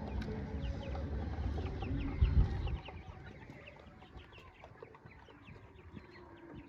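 A flock of young chickens peeping, many short falling peeps overlapping constantly. A low rumble with a loud thump about two seconds in stops near the three-second mark.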